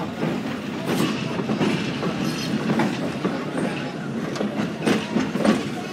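Chicago Aurora and Elgin electric interurban car rolling along the track, with a steady rumble and its wheels clicking irregularly over the rail joints.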